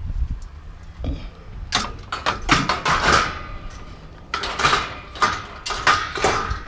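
Metal bed rails being shifted into a load of scrap: a run of sharp clanks and knocks with short ringing scrapes of metal on metal, in two clusters.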